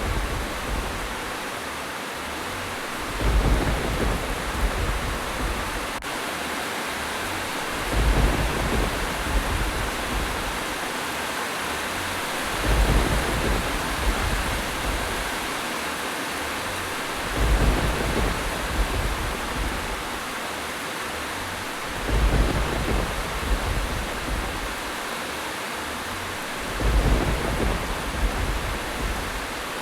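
Steady heavy rain hissing, with low thunder rumbles that swell and fade six times at even spacing of about five seconds.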